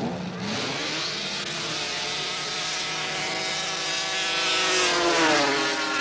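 Two-stroke race snowmobiles launching down a grass drag strip, the engine note climbing steeply as they accelerate, holding high, then dropping in pitch as they pass by, loudest near the end.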